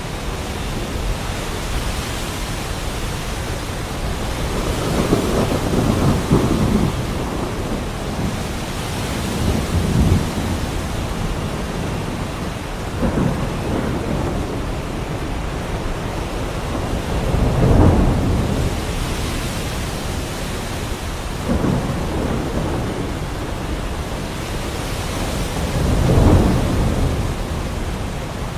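Heavy rain falling steadily, with about six rolls of thunder that rumble up and die away. The strongest rolls come about two-thirds of the way through and near the end.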